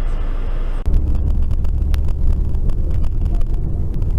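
Car driving noise as picked up by a dash cam: steady road and engine rumble. It changes abruptly a little under a second in to a heavier, deeper rumble with a few faint clicks.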